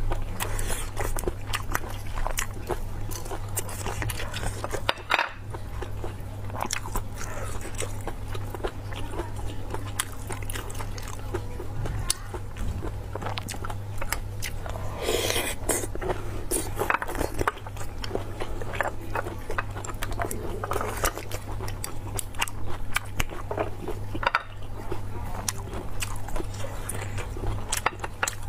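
A person biting and chewing sea snail meat: many short, quick mouth clicks throughout, over a steady low hum.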